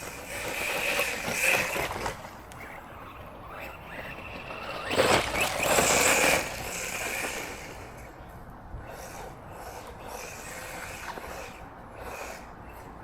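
Arrma Granite Grom, a small brushless electric RC truck, being driven: a motor whine with running noise that grows louder in two bursts, about a second in and again about five seconds in, the second the loudest.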